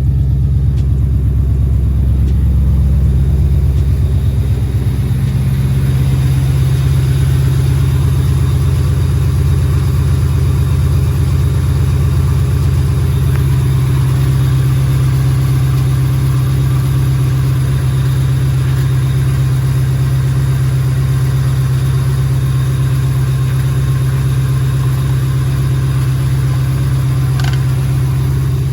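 Swapped three-valve Ford V8 in a 2001 Mustang GT idling steadily; the idle eases down a few seconds in and then holds even.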